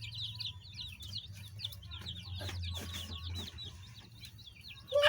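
A group of baby chicks peeping: many short, high, downward-sliding chirps overlapping without a break, with a louder, lower call right at the end.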